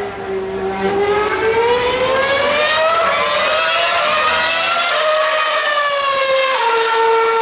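A Formula One car's 2.4-litre V8 engine giving a high, smooth whine. Its pitch climbs slowly, wavers, then drops in two steps like downshifts, and holds a steady pitch near the end.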